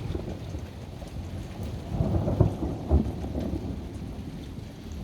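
Thunder rumbling over steady rain, swelling about two seconds in and then dying away.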